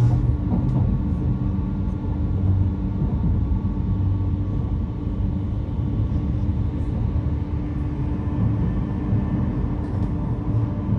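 A train running, with a steady low rumble and a steady low hum, and a few faint clicks over it.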